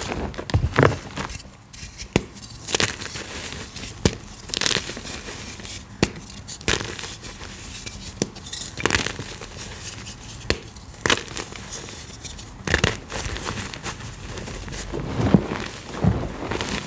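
Gym chalk blocks and reformed gym chalk being crushed and crumbled: a run of irregular, crunchy, powdery cracks and crackles.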